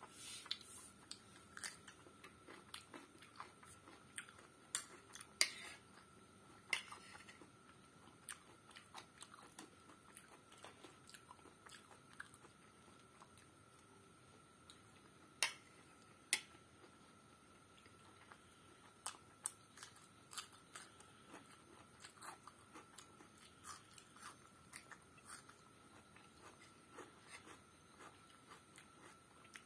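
Close-miked chewing and crunching of egg pasta and raw cucumber slices, with many short mouth clicks and an occasional sharper click.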